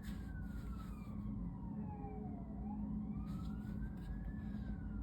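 Emergency vehicle siren wailing. Its pitch slides slowly down and back up in a cycle of about four seconds, over a steady low rumble.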